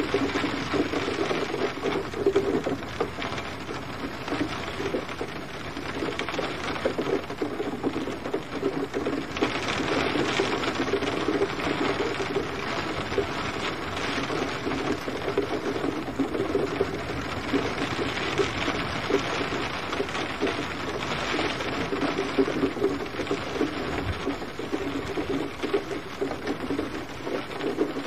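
Steady rain falling, a continuous dense sound of drops that swells and eases slightly in strength.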